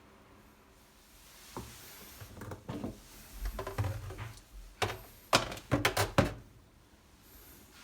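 A series of irregular knocks, clicks and clatters from things being handled, the sharpest cluster about five to six seconds in.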